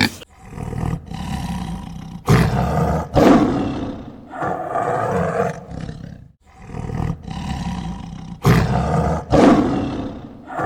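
Lion roaring: a series of deep, loud roars one after another. It cuts off abruptly at the end.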